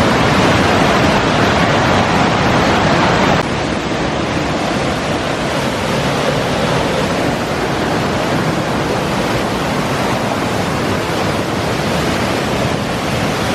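Waterfall's rushing water: a steady, loud noise that drops a little about three seconds in.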